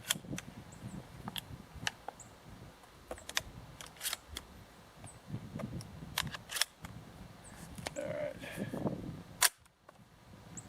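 Sharp metallic clicks and knocks from handling a 12-gauge ATA CY Tactical semi-automatic shotgun, a few seconds apart, then one loud shotgun shot about nine and a half seconds in.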